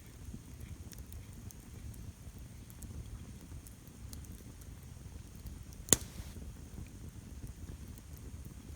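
Wood campfire crackling, with small scattered ticks over a low rumble and one loud sharp pop about six seconds in.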